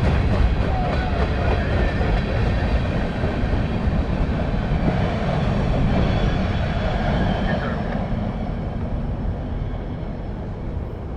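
Freight cars of a CSX manifest train rolling past, with a steady rumble and rattle of steel wheels on the rails. The sound grows gradually quieter over the last few seconds.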